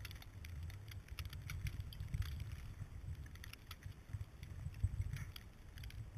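A dog running and bounding through snow: uneven low thumping rumble from the movement, with many short crisp crunches and clicks scattered through it.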